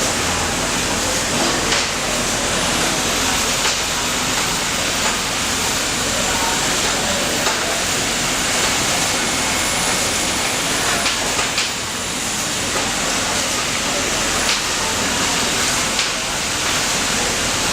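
Automatic pattern sewing machine running in a workshop: a steady, dense mechanical noise with a few sharp clicks scattered through it.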